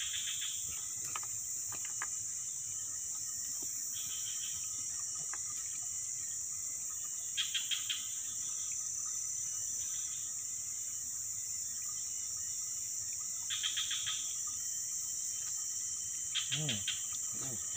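Steady, high-pitched drone of a forest insect chorus, with short bursts of quick chirps every few seconds.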